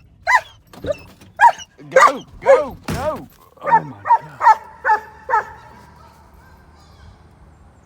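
A dog barking repeatedly, about eleven short barks roughly two a second, stopping a little over five seconds in.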